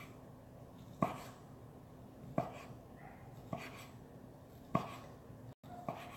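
Kitchen knife slicing sausage on a cutting board: a sharp knock of the blade hitting the board about once a second, five cuts in a row.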